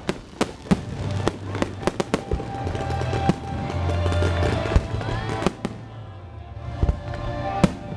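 Fireworks display: a rapid string of bangs and crackling bursts over music. The bangs thin out a little past halfway, with a couple of louder single bangs near the end.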